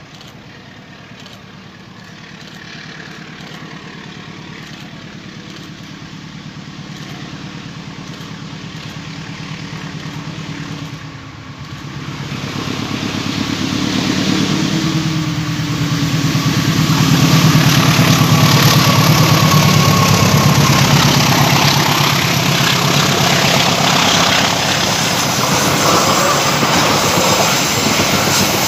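CC204 diesel-electric locomotive approaching, its engine growing steadily louder and loudest about two-thirds of the way in as it passes, followed by the passenger coaches rolling by with wheel clatter on the rails.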